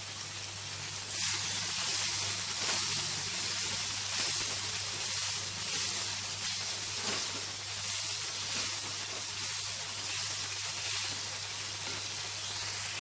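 Tomato puree and onion-spice masala sizzling as it is sautéed in a kadai, the stage where the tomato is fried until its raw smell goes. The sizzle grows louder about a second in and cuts off suddenly near the end.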